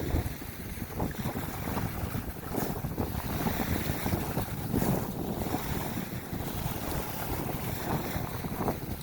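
Wind buffeting the microphone outdoors: a rough rumbling rush that swells and eases in uneven gusts.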